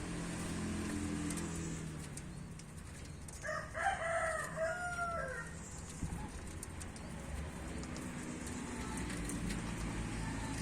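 Zebra dove (perkutut) calling: a short run of pitched, gliding notes about three and a half seconds in, the last note falling away, over a low background hum.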